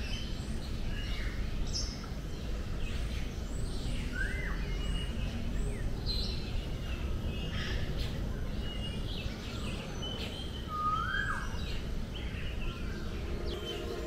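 Several birds calling and chirping over a steady low background noise. Two louder swooping whistled calls stand out, one about four seconds in and another near eleven seconds.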